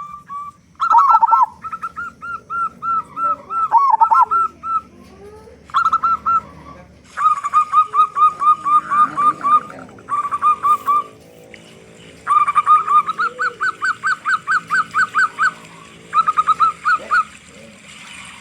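Zebra dove (perkutut) cooing: several runs of fast, short repeated notes, each run broken off by a brief pause.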